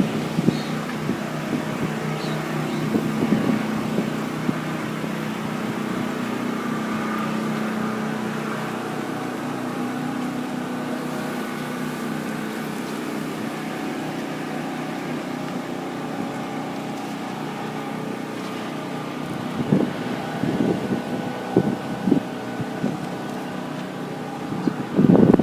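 Steady hum of a vehicle engine running at a constant pitch, with a light rush of air.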